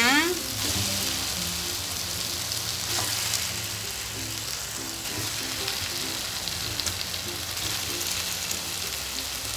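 Spice paste frying in hot oil, sizzling steadily as raw chicken pieces are added to the pan.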